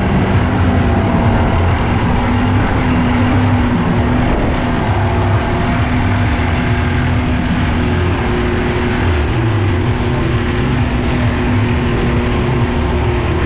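Glass-bottom boat's motor running steadily under way: a constant engine hum over a dense rush of wind and water noise.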